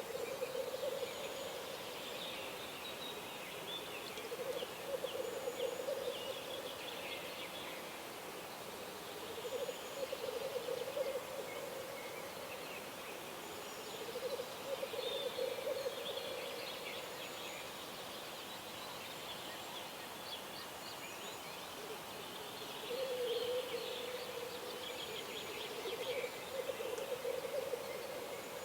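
Dawn chorus of wild birds: a low bubbling call comes in repeated bouts of a couple of seconds, with higher chirping and trilling song over it and a faint high note repeating every few seconds.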